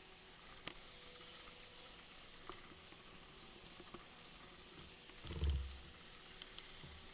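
SOS steel-wool soap pad scrubbing a Honda C70's aluminum engine case half, a faint rasping hiss with a few small clicks. A louder low bump comes about five and a half seconds in.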